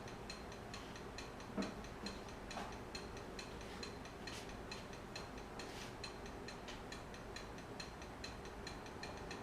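Wood lathe running slowly at about 120 RPM, with a faint, even mechanical ticking of about four or five ticks a second. A couple of slightly louder knocks come about one and a half and two and a half seconds in.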